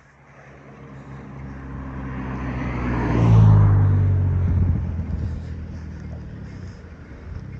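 A motor vehicle passing on the road: its engine and tyre noise grow louder, peak about three seconds in with a drop in pitch as it goes by, then fade away.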